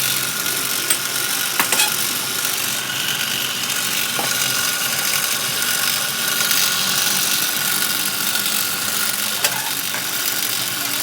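Cylinder-head facing machine running: a steady mechanical hiss with a faint high whine, broken by a few sharp clicks.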